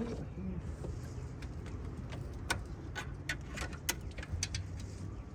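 Scattered light clicks and taps of hand tools and bolts against metal while exhaust manifold bolts are being removed, over a steady low hum.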